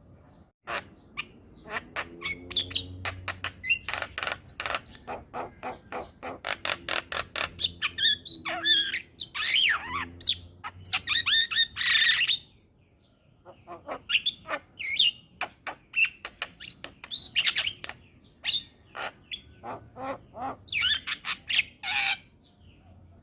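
Javan myna singing: a fast, varied run of harsh clicks, squawks and whistled chirps, with a brief pause about halfway through.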